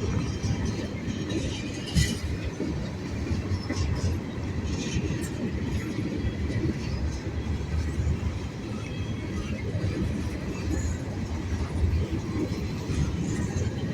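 Long freight train rolling past: a steady rumble of steel wheels on the rails, with occasional sharp clanks, the loudest about two seconds in.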